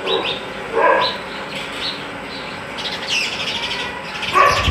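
Sparrows chirping: short high chirps, a quick trill about three seconds in, and a few lower, louder calls about a second in and near the end.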